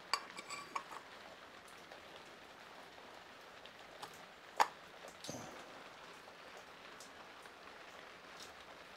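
Small metal fixings clinking as they are handled and sorted by hand: a few light ringing clinks in the first second, then scattered clicks, the sharpest about halfway, over a low steady hiss.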